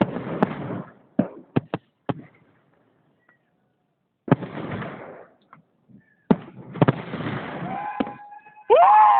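Fireworks salute shells bursting: sharp bangs, each trailed by a rumbling crackle, come in groups with a pause of about two seconds. Near the end a loud horn toot rises and falls in pitch.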